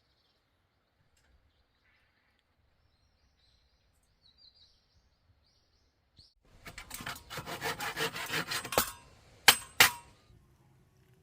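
Saw cutting through wood in quick back-and-forth strokes for about two and a half seconds, then two sharp wooden knocks. Faint birdsong is heard before the sawing.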